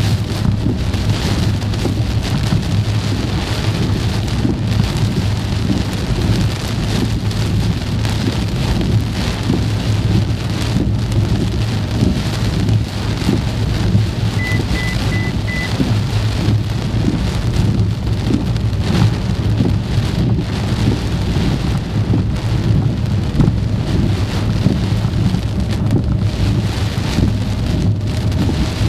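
Heavy rain pelting the windshield and body of a moving car, over a steady low drone of the car on the road.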